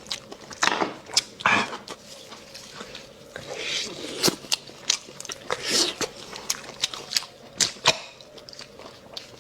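Close-up eating sounds from spicy bone marrow: short slurps of marrow being sucked out of the bones, and wet chewing, broken by scattered sharp clicks and clacks.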